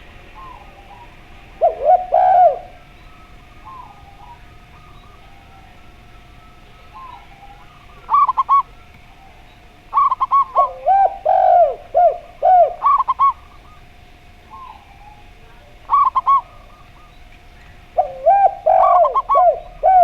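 Zebra dove and spotted dove cooing in short bursts of quick, bouncing notes, with pauses of a few seconds between phrases. A faint steady tone runs underneath.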